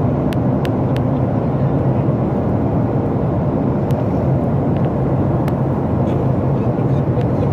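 Steady roar inside the cabin of a Boeing 737 MAX 8 airliner, its engines and airflow giving an even, low rumble with a constant hum, and a few faint ticks from the cabin.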